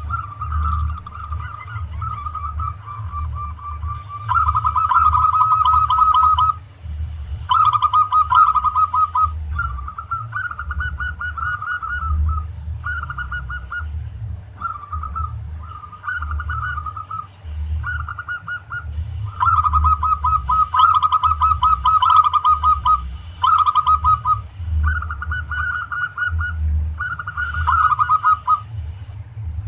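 Zebra doves (perkutut) cooing: repeated bursts of rapid, stuttering coos, each lasting about half a second to two seconds with short gaps between, over a steady low rumble.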